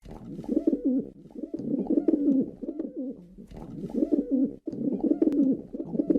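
Pigeon cooing: repeated low, wavering coos in runs of about a second each, with a brief dropout a little over four and a half seconds in.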